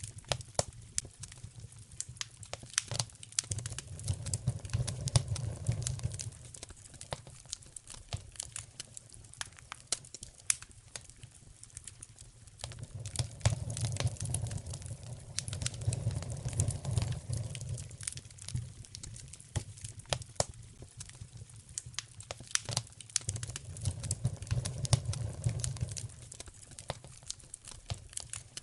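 Wood fire in a fireplace crackling and popping, with many sharp snaps throughout. A low rumble swells up and dies away three times: about three seconds in, in the middle, and near the end.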